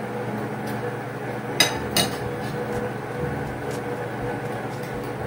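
Spoon and plates clinking twice at a meal, two sharp knocks about a second and a half in, over a steady background hum.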